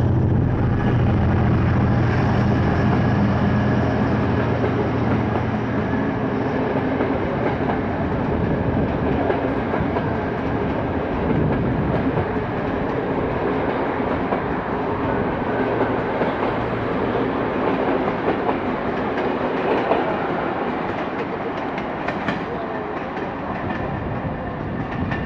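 Train running along the track, its wheels clattering over the rail joints, with a steady low engine hum in the first few seconds.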